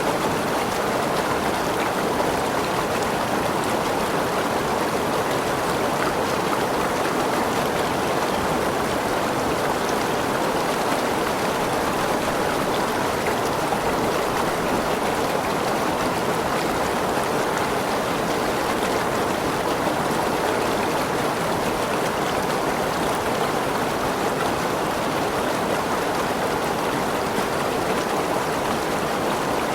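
Forest waterfall with rushing, splashing water: a steady, even wash of noise with no single events standing out.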